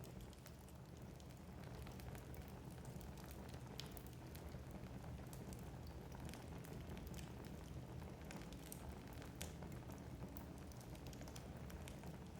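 Wood fire crackling in a fireplace: frequent small, irregular pops and snaps of burning logs over a low, steady rumble of the flames.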